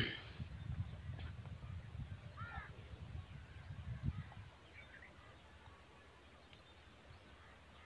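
A bird cawing, a clear call about two and a half seconds in and a fainter one near five seconds, over low knocking and rumble that die down after about four and a half seconds.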